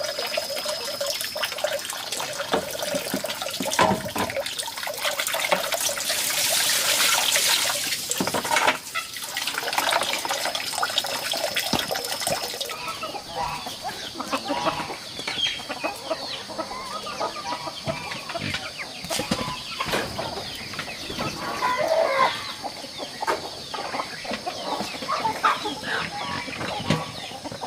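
Farmyard chickens clucking, with many short scattered calls. A brief rush of hissing noise, like water pouring, comes about six seconds in.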